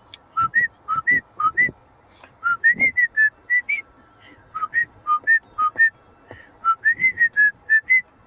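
Cockatiel whistling a run of short, clear notes, many in rising low-high pairs, in several quick phrases with brief pauses between.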